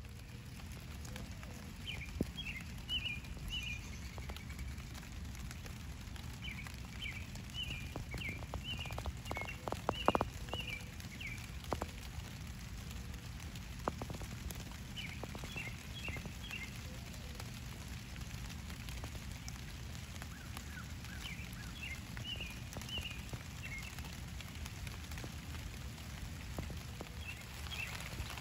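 A small songbird chirping in quick runs of short high notes, in five bursts a few seconds apart, over a steady low rumble. A few sharp clicks are heard around the middle.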